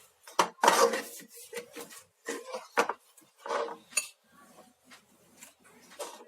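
Kitchen bakeware and utensils clattering: an irregular run of knocks and clinks, the loudest about a second in.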